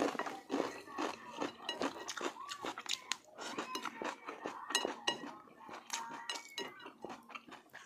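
Eating at a table: irregular light clinks and clicks of dishes and utensils, mixed with chewing and mouth sounds.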